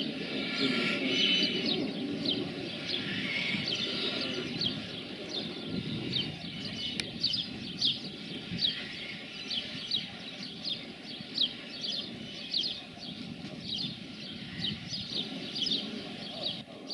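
Small birds chirping: short, high chirps repeated about twice a second, over a low rumble that eases after the first few seconds.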